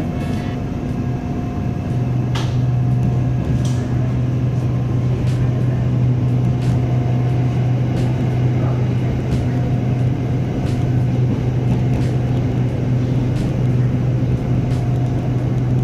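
SRT Red Line electric train running, heard from inside the carriage: a steady low hum of motors and wheels on the rails, with a faint steady higher tone over it and scattered light clicks.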